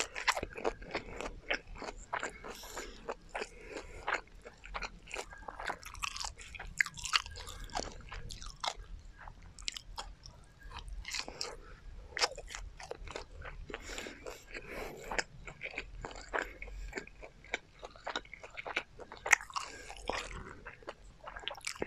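Close-up chewing and crunching of crispy battered garlic fried chicken bitten off a skewer, with many sharp crunches at irregular intervals.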